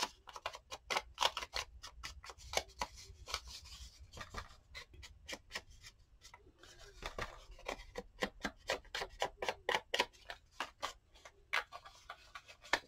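Quick, irregular rubbing and dabbing of an ink applicator on a paper cut-out, colouring its white edges.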